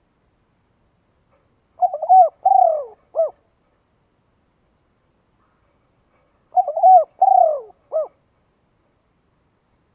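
A bird calling twice, each call a short phrase of several quick notes that arch up and fall away, about five seconds apart.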